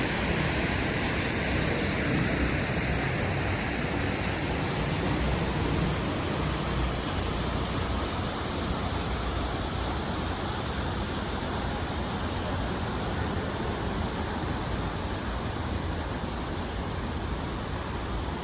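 Gusty wind rushing over the microphone with a low buffeting rumble, easing slightly near the end.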